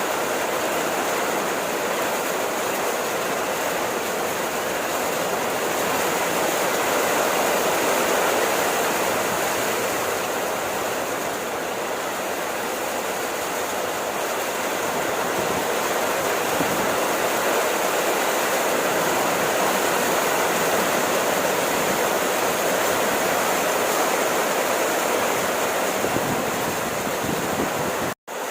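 Steady, dense rainfall, an even hiss of falling water without let-up. Near the end the sound cuts out completely for a split second, then resumes.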